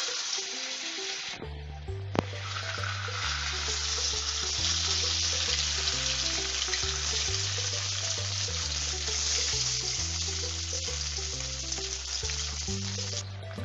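Steamed chicken momos shallow-frying in hot oil in a kadhai: a steady, dense sizzle. Background music with a stepped bass line comes in about a second and a half in.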